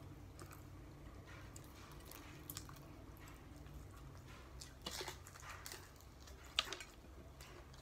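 Close-up chewing and biting of fried chicken, with scattered sharp crunches and mouth clicks over a faint low hum; the loudest come about five seconds in and again about six and a half seconds in.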